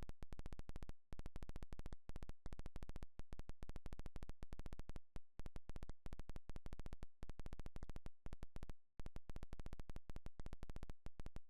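A fast, very regular train of sharp clicks, roughly ten a second, broken by brief gaps. It sounds like a digital glitch in the recording, not a sound from the scene.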